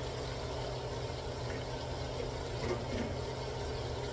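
Shredded cabbage sizzling steadily in hot oil and bacon fat in a pot on an electric stove, over a constant low hum.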